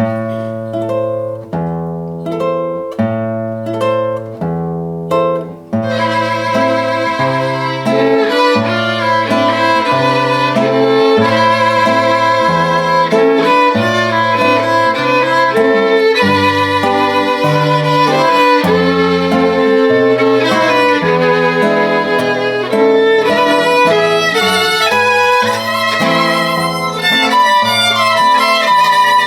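Violin playing a melody over a stepping bass and chordal accompaniment. The accompaniment plays alone for about the first six seconds, and then the violin comes in.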